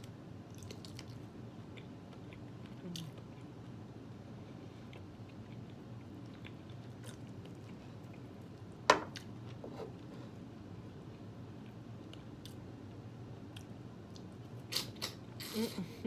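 Close-up mouth sounds of eating boiled meat: quiet chewing of boiled sausage, then wet smacking and sucking on a neck bone near the end. There is one sharp click about nine seconds in.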